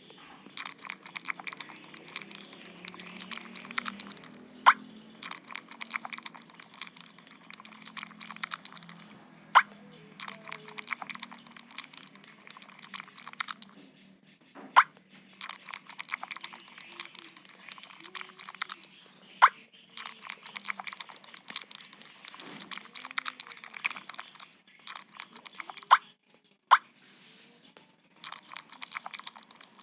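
Dense crackling crunching in bursts of about four seconds, broken by short pauses that each hold a sharp click.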